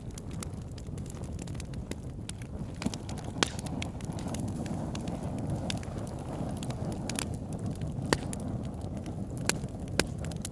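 Wood fire burning: a steady low rushing under frequent sharp crackles and pops, with a few louder pops scattered through.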